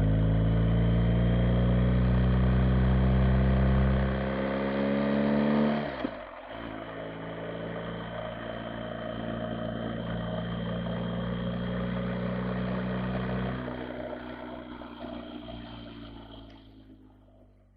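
BMW R 1250 GS boxer-twin motorcycle engine pulling under load, its pitch rising steadily for about four seconds. It drops back sharply around six seconds, runs on quieter and lower, then fades away near the end.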